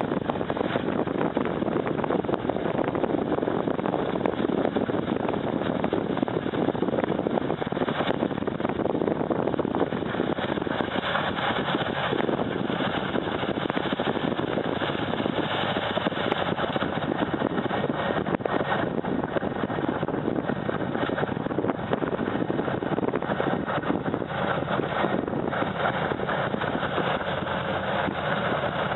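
Snow-removal machine's engine running steadily, with a dense, even mechanical noise.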